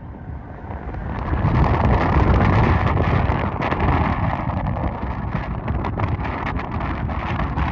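Strong wind buffeting the microphone, swelling about a second in, with scattered sharp knocks and cracks through it.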